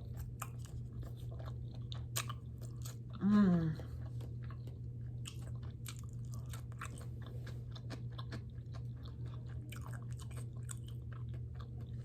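Close-miked chewing of sushi rolls, with wet mouth clicks and smacks throughout. There is a short voiced hum of the mouth about three seconds in, and a steady low hum underneath.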